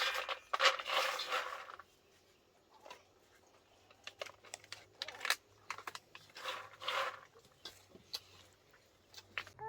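A rustling noise for about the first two seconds, then scattered light clicks and taps.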